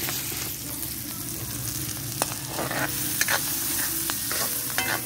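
Chopped garlic and onion sizzling in hot oil in a metal wok, with a spatula scraping and clicking against the pan as they are stirred.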